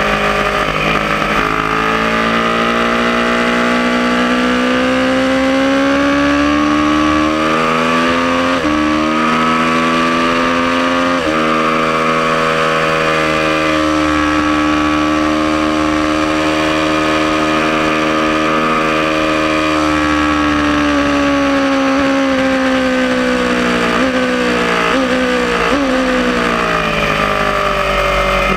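Aprilia Tuono motorcycle engine pulling hard on a track lap: revs climb, drop sharply at two upshifts, then hold high down a straight. Near the end the revs fall, with a few quick steps as it downshifts for a corner.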